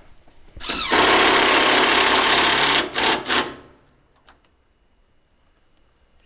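Power drill-driver driving a screw while a goat-pen roof is fastened down. It spins up and runs for about two seconds, then gives two short bursts as the screw is seated.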